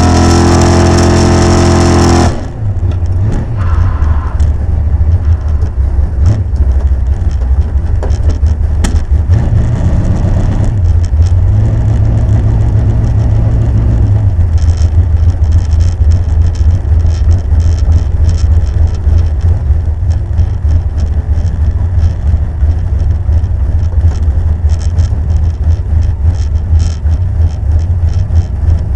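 Pontiac Firebird drag car's engine at full throttle, heard onboard, that cuts off abruptly about two seconds in as the throttle is lifted; it then runs at low revs with a rough, uneven rumble and scattered crackles.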